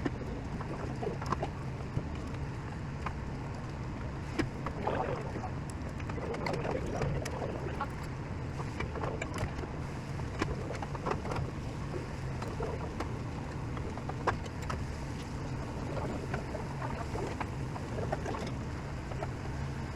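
Restaurant dining-room ambience: a steady low hum with scattered sharp clicks of tableware and faint distant voices.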